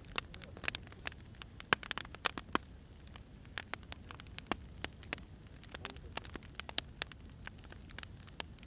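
Firewood burning with irregular sharp crackles and pops over a low steady rumble.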